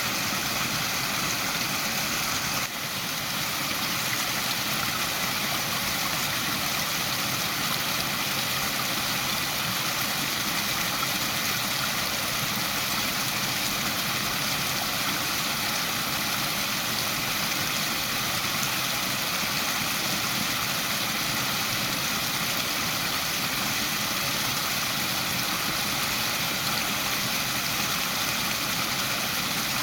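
Waterfall: a steady rush of falling water, with a brief dip in level about three seconds in.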